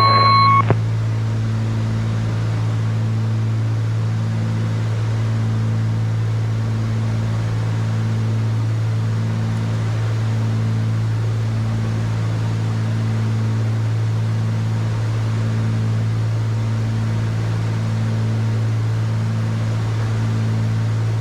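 Cessna 310Q's twin piston engines and propellers running steadily in cruise, heard in the cockpit as a low drone with a slow throb about once a second. A short electronic tone cuts off about half a second in.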